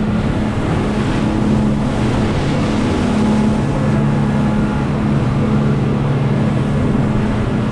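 A motorboat's engine running steadily at cruising speed, a steady low drone under the rush of wind and water as the boat runs.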